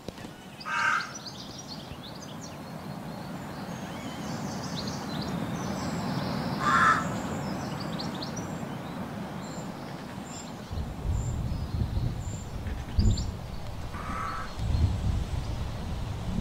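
A bird calling: three short calls several seconds apart, about a second in, near the middle and near the end, over steady background noise, with low rumbling gusts in the second half.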